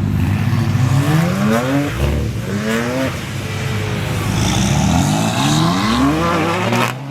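A car engine accelerating hard under full throttle, its pitch climbing in several pulls with a gear change between each.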